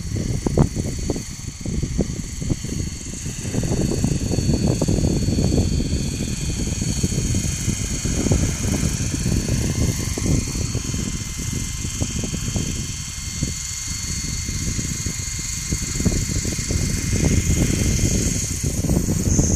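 Electric coaxial RC model helicopter with two three-blade rotors in flight: a steady high whine from its brushless motor and drive, drifting slightly in pitch, over a loud gusty low rush from the rotors.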